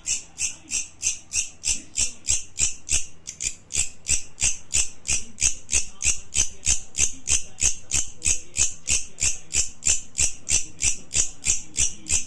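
Insect chirping: short, high-pitched chirps repeated evenly, about three to four a second.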